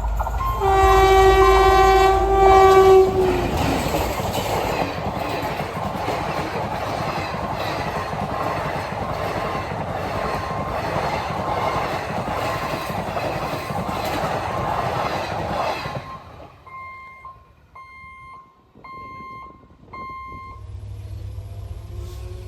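Indian express train's locomotive horn blowing for about three seconds, dropping in pitch as it ends, then the train rushing past at speed with a steady rhythmic clickety-clack of wheels over rail joints. The rush cuts off abruptly about three-quarters of the way through, and four short electronic beeps follow, about a second apart.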